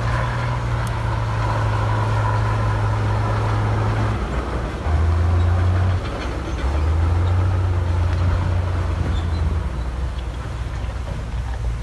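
Diesel engine of heavy earthmoving equipment running under changing load, its low drone shifting in steps and loudest about five seconds in.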